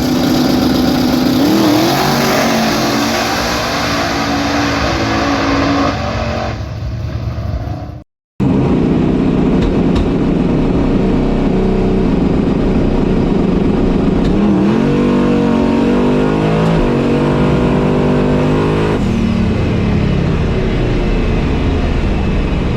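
Turbocharged LS V8 in an S10 pickup pulling hard down a drag strip, its pitch rising and stepping as it shifts gears. The sound drops out briefly about eight seconds in, then the engine climbs through several shifts again.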